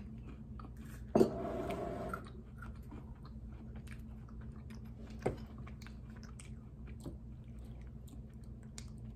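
Close-up chewing and small wet mouth clicks of people eating chocolate. A louder sound starts about a second in and lasts about a second, and a single sharp knock comes about five seconds in.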